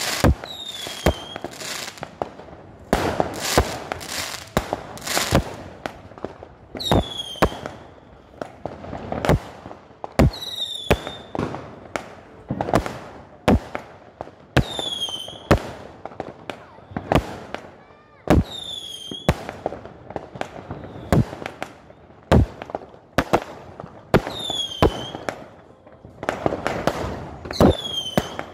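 Aerial fireworks firing shot after shot: sharp bangs of launches and bursts come roughly once or twice a second, with a short falling whistle every few seconds.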